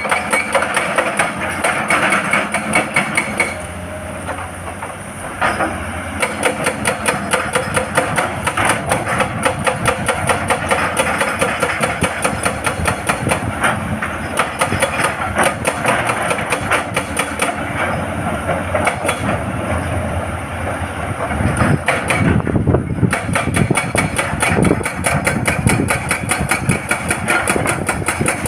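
Hydraulic rock breaker on an excavator hammering rock with rapid, evenly spaced blows over the running diesel engine, pausing briefly about four seconds in and again past the twenty-second mark.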